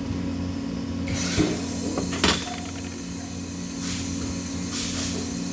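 Steady machine hum, with several short hisses and one sharp click a little over two seconds in.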